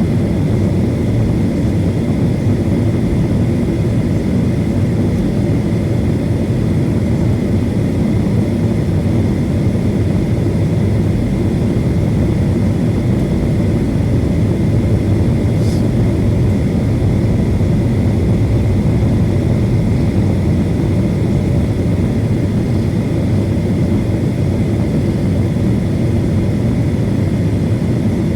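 Boeing 737 jet engines at high takeoff thrust: a loud, steady rumble with a thin, steady whine above it.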